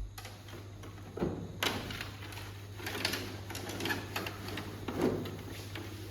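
Scattered light knocks and clicks, about one a second, over a steady low hum.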